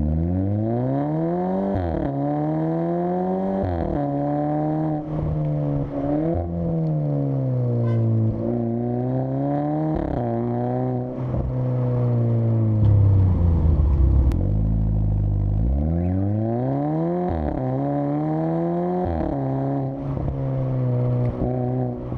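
SEAT Leon engine through a cat-back exhaust with a Borla muffler, pulling through the gears: the exhaust note climbs in pitch and drops sharply at each shift, winds down slowly around the middle as the car eases off, then climbs through quick shifts again.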